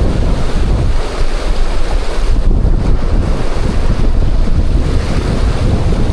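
Strong wind buffeting the microphone: a loud, fluctuating low rumble that covers everything else.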